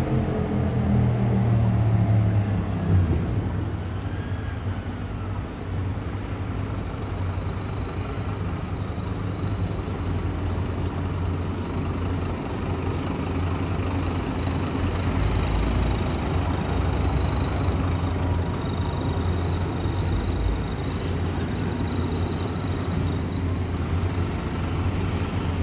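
A fire truck's heavy diesel engine running, its pitch falling over the first few seconds as it eases off, then a steady low rumble. A faint, high, steady whine runs over it.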